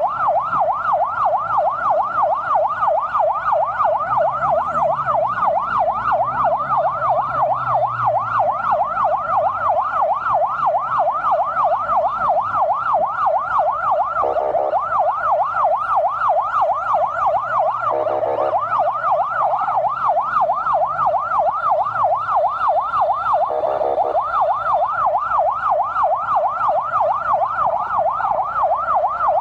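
Emergency vehicle siren sounding a fast, continuous rising-and-falling yelp, about three sweeps a second. It is broken three times by short buzzing blasts, over a low engine hum.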